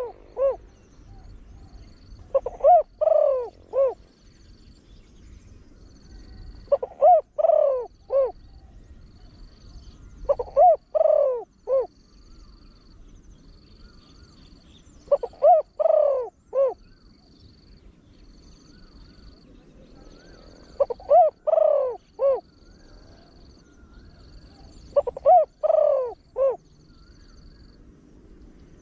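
Spotted dove cooing in a deep voice, giving repeated phrases of three or four notes about every four to five seconds; each phrase has a longer, louder middle coo.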